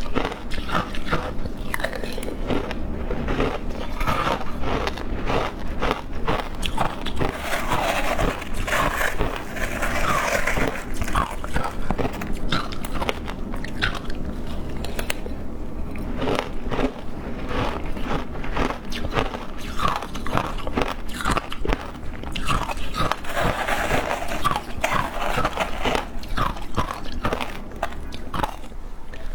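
Shaved ice being bitten and chewed, with dense, irregular crunching and crackling.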